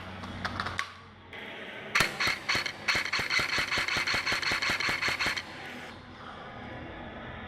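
Airsoft electric gun (a customised KWA Commando AEG) firing one long full-auto burst that starts about two seconds in and lasts about three and a half seconds, a fast even rattle of shots, after a few single sharp clicks near the start.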